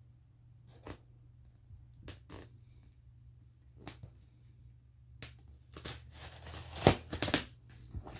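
A package being worked open by hand: scattered sharp clicks and rustles of packaging, then about five seconds in a run of louder tearing and crinkling as it gives way.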